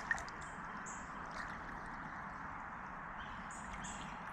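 Outdoor ambience: short high-pitched bird chirps, several of them a second or so apart, over a steady hiss.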